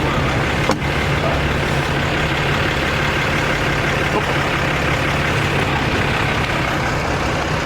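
Truck engine running steadily, a low hum with broad mechanical noise over it that eases off about six seconds in. A single short click comes less than a second in.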